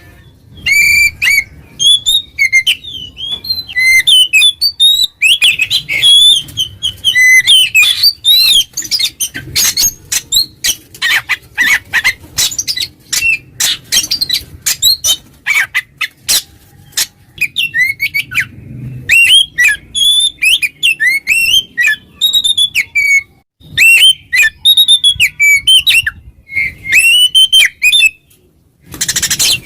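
Oriental magpie-robin (kacer) singing loudly in the full 'ngeplong' style: a rapid, varied run of whistles, chirps and harsh notes with short breaks, the longest near the end. This is a lure song meant to provoke rival males into singing.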